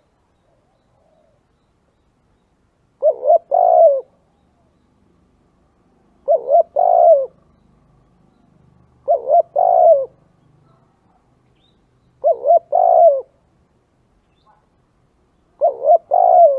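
Spotted dove cooing: five calls about three seconds apart, each two short coos followed by a longer one. The last call is cut off at the end.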